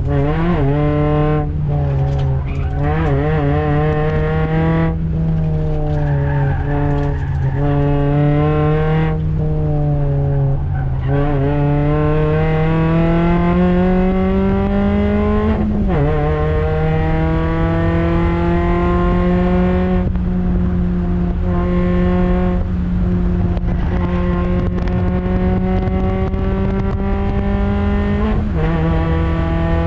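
Toyota Yaris NCP91 race car's 1.5-litre four-cylinder engine being driven hard on track. In the first part the revs rise and fall repeatedly as the car goes through corners. Then it pulls up in a long climb of pitch, with sharp drops at upshifts about halfway and near the end.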